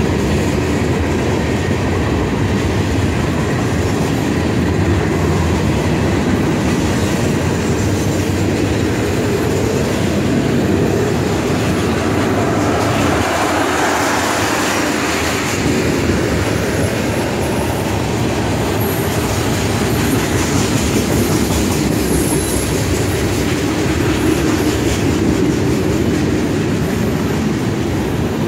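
Freight cars of a long CSX train rolling steadily past: a continuous rumble with rapid wheel clacks, and faint high wheel squeals now and then in the second half.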